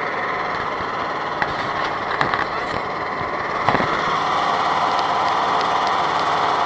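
Vehicle engine running steadily, with a few sharp knocks about one and a half, two and nearly four seconds in.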